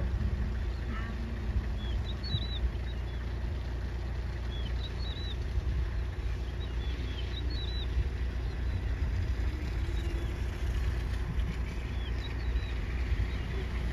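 A bird repeating short groups of high chirps every second or two, over a steady low rumble.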